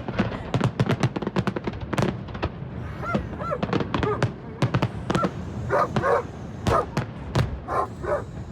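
Rapid cracks and pops of fireworks, with short high calls over them from about three seconds in.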